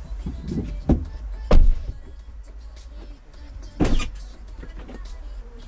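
Tesla Model 3 cabin noise while driving: a steady low road rumble, broken by three sharp thumps about a second in, a second and a half in, and near four seconds.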